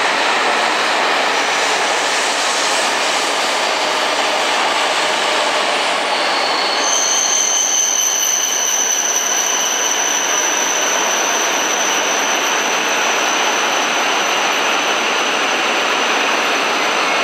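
Coupled E5 and E6 series Shinkansen train running slowly into a station platform: a steady rush of wheels and running gear on the rails. From about six or seven seconds in, a high, steady squeal joins it and lasts to the end as the train slows for its stop.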